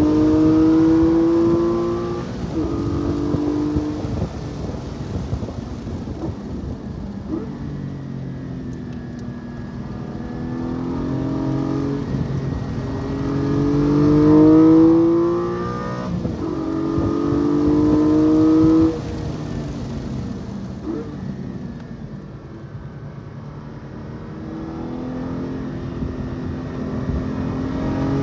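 Porsche 718 Cayman GT4's flat-six engine heard from inside the car on track, its pitch climbing in repeated pulls under acceleration and falling away between them as the car slows for corners. One pull cuts off sharply about two-thirds of the way through, followed by a quieter, lower stretch before the engine climbs again near the end.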